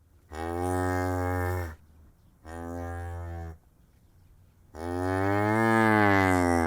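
A cow mooing three times: a call of over a second, a shorter quieter one, then a long, loudest moo near the end that rises and falls slightly in pitch.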